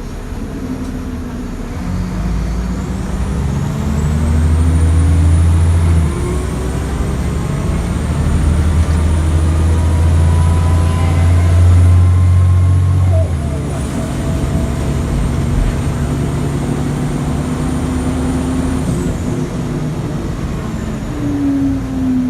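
Scania L94IB city bus's diesel engine pulling away and accelerating through its ZF 5HP500 automatic gearbox. The engine pitch climbs, drops as the gearbox changes up about six seconds in, climbs again and drops at a second upshift about thirteen seconds in, then settles to steady cruising. A thin high whine runs through the middle.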